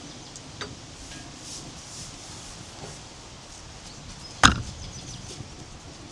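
A single sharp knock about four and a half seconds in, standing out over faint background noise and a few small clicks.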